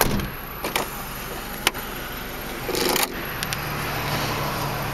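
1990 Hyundai Sonata's 2.4-litre inline-four idling steadily, with a few sharp clicks and a short rustle. A low steady hum comes in about three seconds in.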